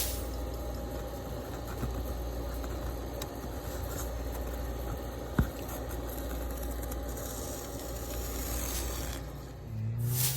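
A steady low mechanical hum, like a running engine or motor, with a single sharp click about halfway through. Pitched musical notes begin near the end.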